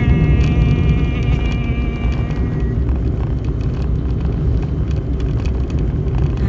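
A long held tone with many overtones, fading out about two and a half seconds in, over a steady low rumble.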